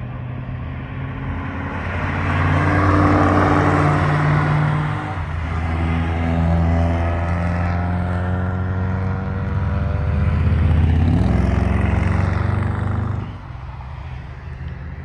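Performance cars running hard past on a race circuit, the engine note building up, shifting in pitch a couple of times, and dropping away sharply near the end.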